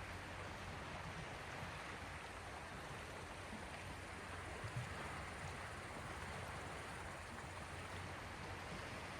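Small sea waves washing against the shore, a steady, soft hiss of water, with a couple of faint low bumps about halfway through.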